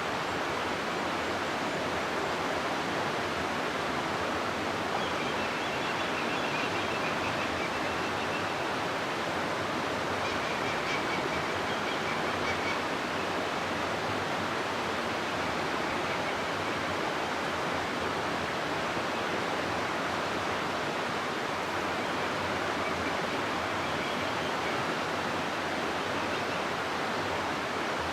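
River water rushing steadily through a rocky gorge: an even, unbroken rushing hiss.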